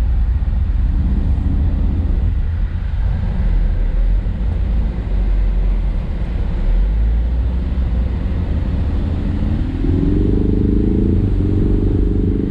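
Ford Mustang's engine running with a steady low rumble as the car is driven. About ten seconds in, the engine note rises and then holds.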